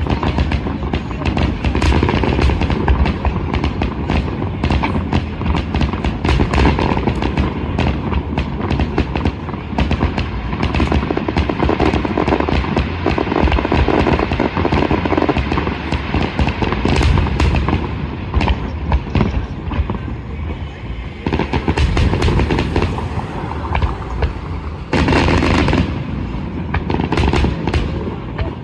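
Fireworks finale: aerial shells bursting in rapid succession, a dense run of booms and crackles, with a brief lull about three quarters of the way through before another heavy volley.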